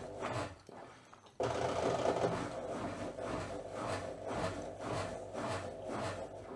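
ASKO W3096RW washing machine in the last minute of its cycle, the drum turning and the laundry tumbling with a rhythmic swishing about twice a second. The sound comes in suddenly about a second and a half in.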